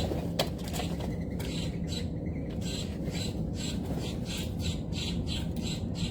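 Birds giving short, harsh squawking calls in a quick run, about three a second, over a steady low rumble. There is a single sharp click about half a second in.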